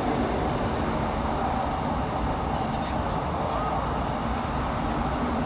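Steady running noise heard from inside the passenger car of a Class 156 diesel multiple unit travelling at speed: the rumble of wheels on the rails and the underfloor diesel engine, with a low steady hum.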